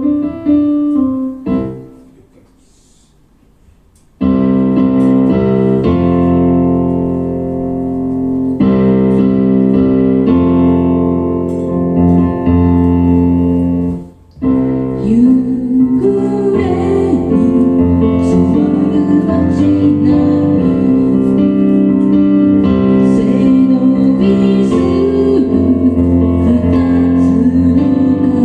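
Electric piano playing the song: a few short chords, a pause, then sustained chords from about four seconds in. After a short break near the middle, a voice sings a melody over the keyboard.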